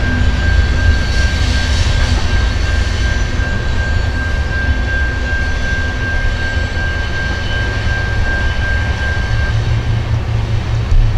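Freight train of covered grain hopper cars rolling past: a steady low rumble with a thin, steady high-pitched wheel squeal that stops near the end.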